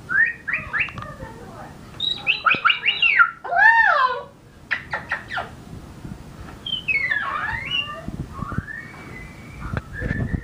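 Moluccan cockatoo calling in quick runs of short chirps and squawks that glide up and down in pitch, with a longer wavering call about four seconds in.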